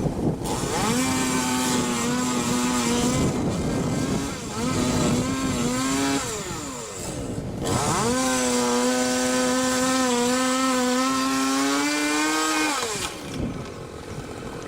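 Chainsaw engine revved high in three runs: a short run from about a second in, a second around the middle, then a long steady run that ends near the end. Between runs the pitch slides down and back up.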